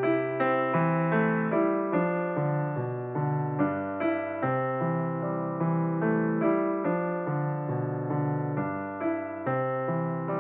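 Background music: a gentle electric piano playing a melody with notes struck every few tenths of a second.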